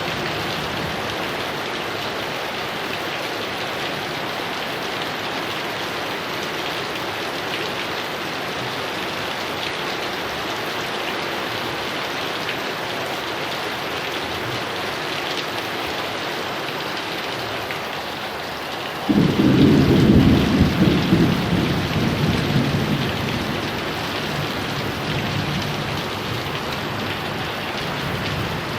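Steady heavy rain, joined about two-thirds of the way through by a clap of thunder that breaks suddenly into a deep rumble and fades out over several seconds.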